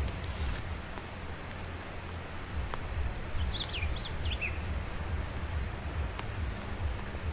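Diademed tanager calling: a quick run of about five short, falling chirps about three and a half seconds in, with a few faint single notes elsewhere, over a steady low background rumble.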